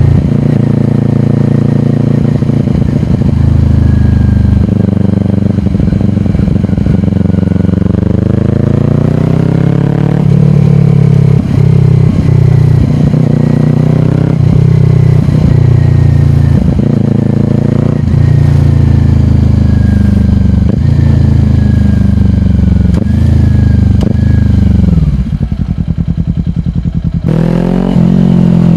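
Kawasaki Ninja 400 parallel-twin engine through a slip-on exhaust, ridden on the road, its pitch rising and falling with throttle and gear changes. About 25 seconds in the revs fall away to a low rumble, then pick up again near the end.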